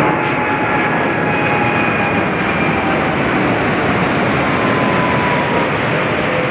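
Boeing 787-8 airliner's two Rolls-Royce Trent 1000 turbofans at takeoff thrust: loud, steady jet engine noise with faint whining tones that slide slowly downward.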